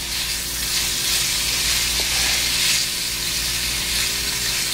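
Zucchini noodles and mushrooms sizzling in a frying pan while being stirred: a steady high hiss.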